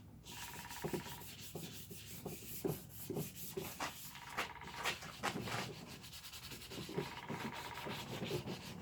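320-grit wet sandpaper rubbed back and forth over a plastic motorcycle part, in uneven strokes about two or three a second, scuffing the surface so the adhesion promoter and paint will stick.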